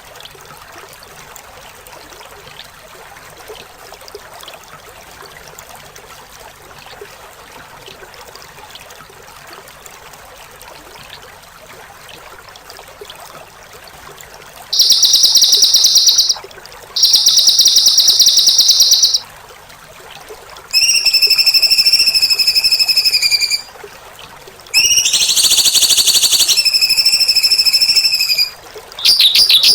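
Faint steady running-water hiss for about the first half, then loud songbird song: two harsh, buzzy rapid trills of about two seconds each, then held clear whistled notes, one with another buzzy trill over it, and a fresh buzzy trill starting near the end.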